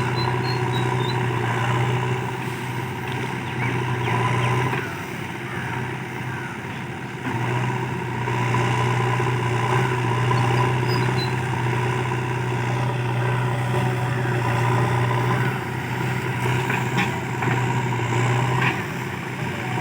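A heavy diesel engine running steadily with a low hum, which eases off briefly about five seconds in and again near the end.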